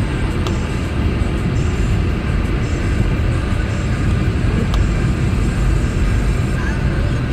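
A car driving: a steady low rumble of engine and tyre noise, with a couple of faint ticks.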